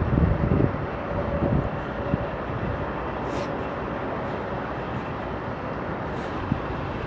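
Strong wind blowing steadily, with low rumbling gusts buffeting the microphone in the first second.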